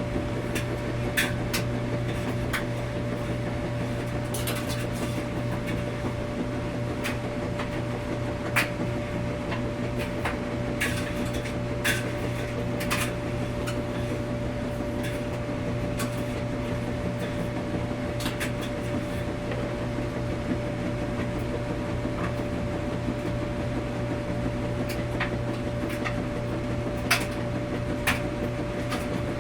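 Washing machine running with a steady low hum and a constant mid-pitched whine, with light clicks and knocks at irregular moments.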